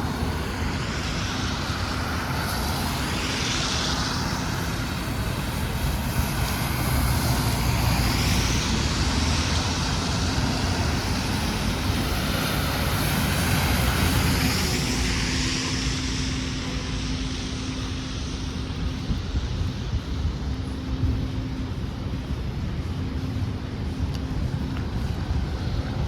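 City street traffic: a steady low engine rumble with a constant hum, and several vehicles hissing past in the first half.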